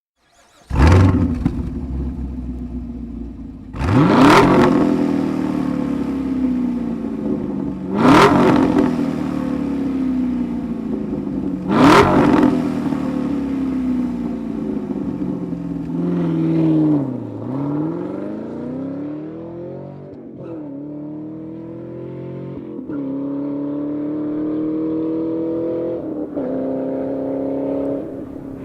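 Chevrolet Camaro SS 6.2-litre LT1 V8 exhaust: the engine starts with a sharp bark about a second in, is blipped three times about four seconds apart, each rev falling back toward idle, then accelerates through several gears, the pitch climbing and dropping at each upshift.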